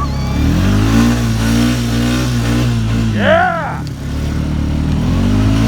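Honda Foreman 500 ATV's single-cylinder engine revving under load on a steep hill climb. The pitch rises and holds, falls off briefly about four seconds in, then rises again near the end.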